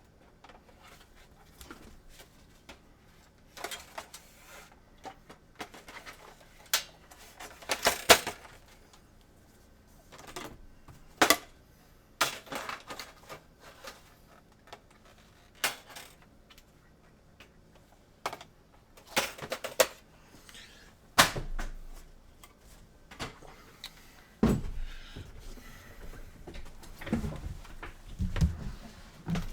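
Scattered clicks, taps and light scrapes of small tools and a game-console circuit board being handled on a workbench, with a few sharper knocks and a denser stretch of handling and low thumps near the end.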